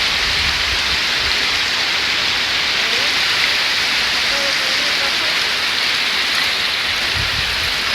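Steady, even rushing of falling water, with a few low thumps near the end.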